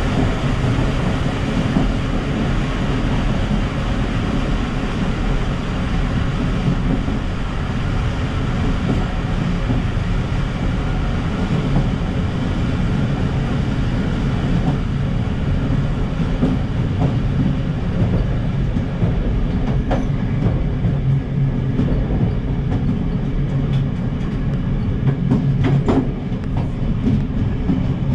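Passenger train running along the track, heard from the rear of the train: a steady low rumble of wheels on rails, with a few sharp wheel clicks over the track in the second half.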